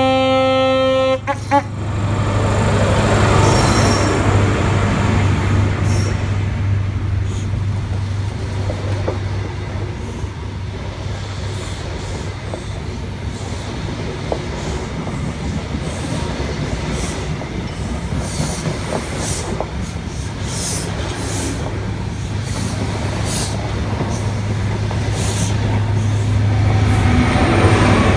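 Passenger train passing close by: a horn blast ends about a second in, then the steady rumble and rush of the coaches going past with light clicks from the wheels. A low drone is loudest as the front passes and again as the rear end passes near the end.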